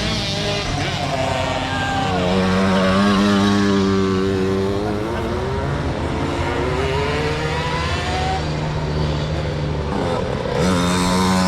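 Several motocross bike engines running together, their pitches rising and falling over a steady lower drone as the bikes accelerate and back off.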